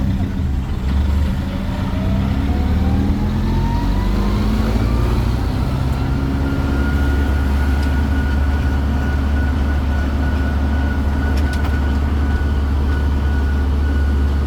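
Tourist road train's engine running with a deep, steady drone. A whine rises in pitch over the first few seconds, then holds steady.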